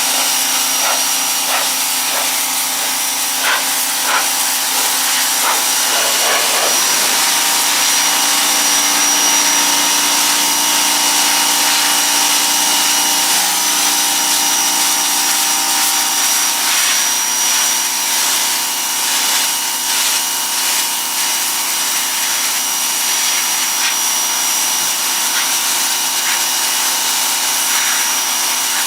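Pressure washer running steadily, its water jet spraying and scouring the driveway tiles: a constant loud hiss with a steady machine hum underneath.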